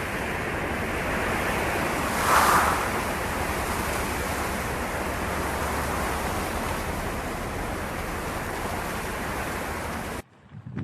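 Steady rushing noise with a brief louder swell about two seconds in. It cuts off abruptly near the end.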